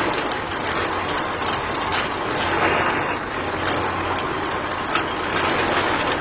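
Handmade mini tractor's small motor and gears running steadily with a low hum and a rattle of clicks, as it pulls a mini disc plough.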